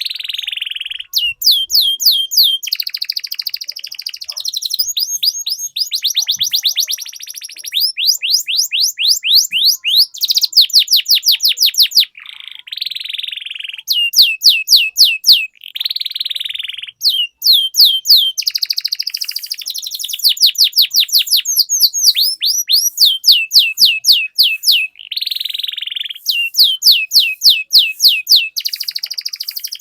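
Domestic canary singing a long, continuous roller song: runs of fast, repeated down-slurred whistles alternate with dense buzzing rolls, with only brief pauses.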